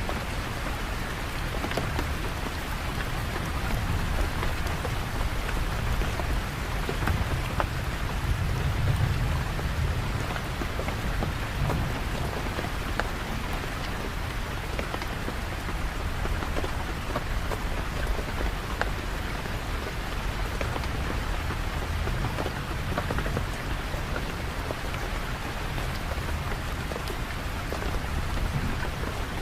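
Steady rain falling, with many small drop patters, over a low rumble of thunder that swells about a third of the way through.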